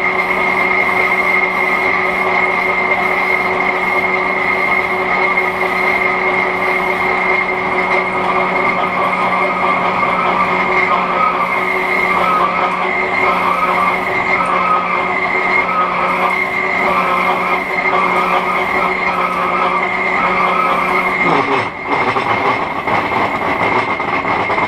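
Hendey flat-belt-drive metal lathe running in back gear under a heavy cut from a high-speed-steel chip-breaker tool: a loud, steady machine hum and whine mixed with cutting noise. About 21 seconds in, the steady tones slide down and drop away and the sound changes.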